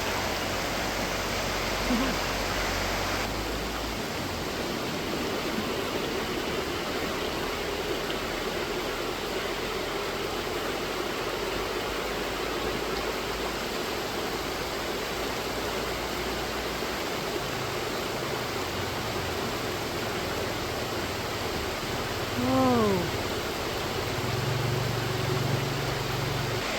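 River water rushing over rocks in a steady, even noise, with one short pitched call a little over 22 seconds in.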